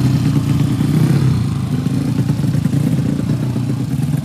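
Drag-race motorcycle engine running steadily at high volume, with a brief dip in pitch about a second and a half in.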